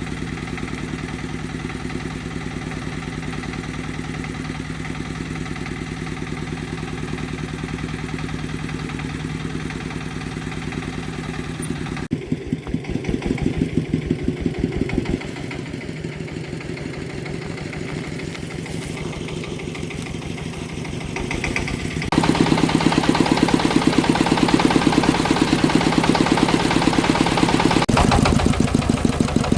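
Farm vehicle engine idling steadily, then changing note abruptly several times. In the last third it runs louder and harder, with a fast, even pulsing beat.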